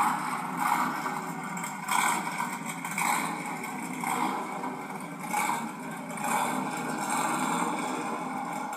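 Stroked V8 engine of a Batmobile replica running, revved in short blips that swell every second or so. It is heard thin and without bass through a television speaker.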